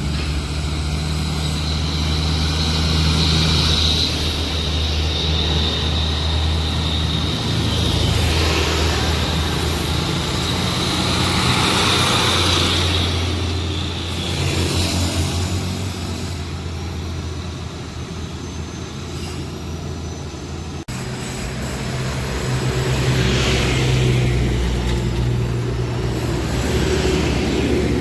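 Diesel engines of heavy trucks pulling under load up a steep climb: a low, steady drone that swells and fades as trucks go by. An abrupt cut about three-quarters of the way through, after which another truck's engine swells up.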